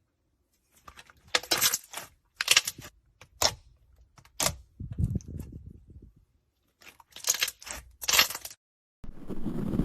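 A series of short, sharp crackling crunches, about six of them in two groups, with a duller low rustle in between. A steady, louder noise starts near the end.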